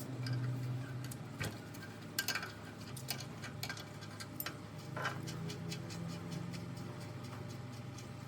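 Scattered light metallic clinks and taps, a few ringing briefly, over a steady low hum.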